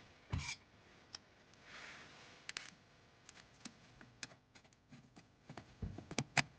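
Scattered light clicks and knocks at an irregular pace, with a dull thump about half a second in, a soft rustle or rub around two seconds, and a quick cluster of knocks near the end.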